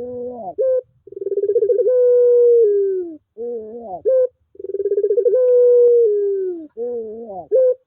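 Puter pelung (a long-voiced Barbary dove) cooing: a long drawn-out coo that holds its pitch, then drops, followed by a short run of wavering, bending notes, twice over.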